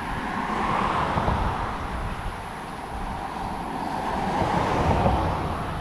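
Vehicles passing on a highway: tyre and engine noise swells about a second in and again near the end.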